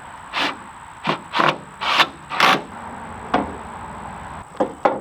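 Wooden boards being handled and slid against each other: a string of short scrapes and knocks, about eight in five seconds.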